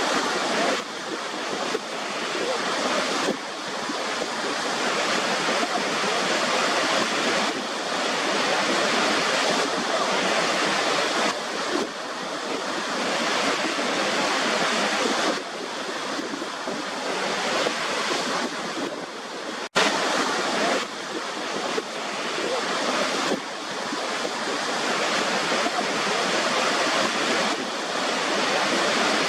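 Waterfall water rushing and splashing in a steady, full hiss that swells and eases slightly, with one split-second gap about two-thirds of the way through.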